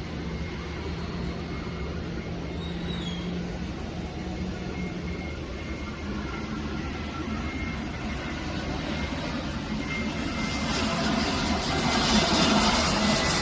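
Airplane engine noise: a steady rush with a low hum that swells louder about ten seconds in as the plane draws closer.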